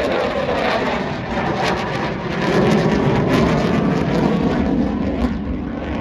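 Jet noise from a Eurofighter Typhoon's twin EJ200 turbofans as the fighter flies its display. A loud, steady rushing roar that swells a little about halfway through, then eases slightly near the end.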